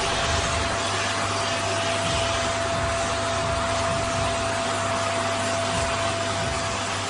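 Vax Mach Air corded upright vacuum cleaner running steadily: a constant rush of air with a steady whine over a low hum.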